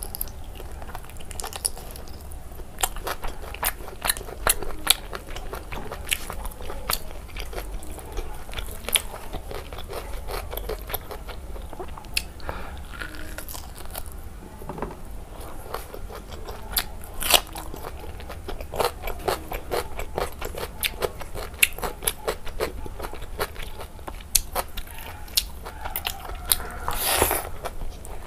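Close-miked eating: wet chewing, lip-smacking and irregular mouth clicks as pork curry and rice eaten by hand are chewed, with a louder burst near the end.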